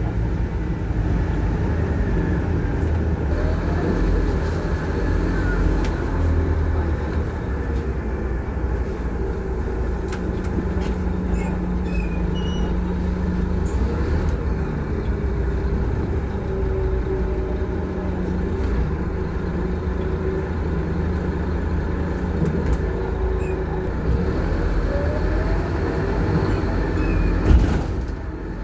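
Scania K230UB Wright Solar single-decker bus under way, heard from inside: steady engine and road noise, with the engine note rising and falling as it pulls away and changes gear. A short knock near the end.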